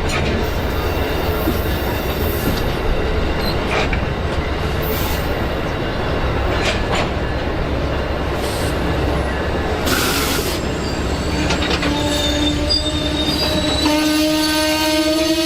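A train running through the station: a loud, steady rail rumble with scattered clicks and squeals. About twelve seconds in, a pitched tone with several overtones comes in and rises slowly in pitch.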